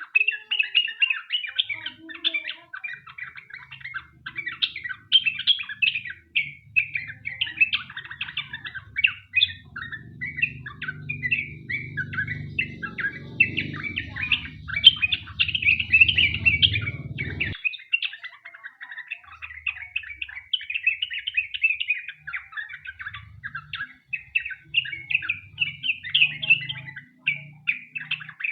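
Yellow-vented bulbul (trucukan) singing a long, fast, unbroken run of chirps. A faint low hum underneath cuts off suddenly about two-thirds of the way through.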